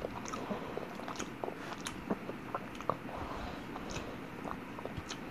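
A person chewing lasagna close to the microphone: soft, irregular wet mouth clicks and smacks.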